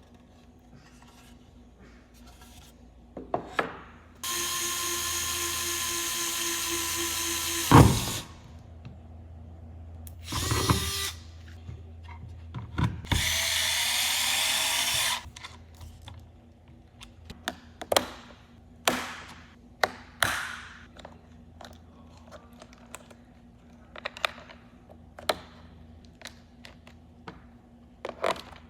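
Hybro H500 3.6V cordless electric screwdriver's small motor running in bursts. First comes a steady run of about three and a half seconds ending in a sharp click, then a short burst, then a second run of about two seconds. Scattered clicks and knocks follow.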